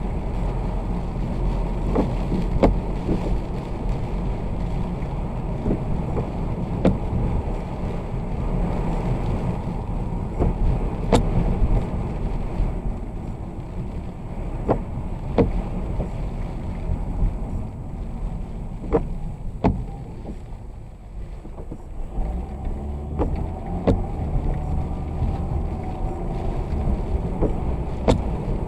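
Vehicle driving in the rain: a steady low road-and-engine rumble broken by scattered sharp knocks. It dips briefly about two-thirds of the way through, then comes back with a steady low hum.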